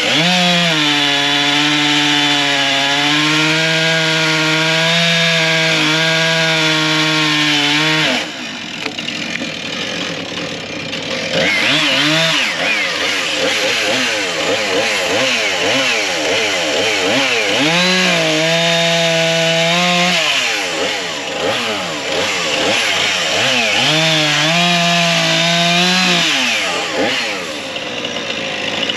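Chainsaw bucking logs into firewood lengths, running at high revs through the cuts. It drops back and revs up again about eight seconds in and again around twenty seconds in.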